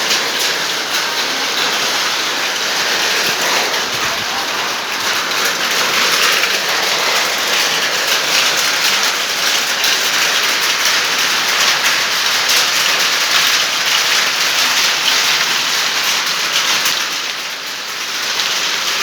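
Rain falling steadily: a dense hiss of many drops pattering on a surface.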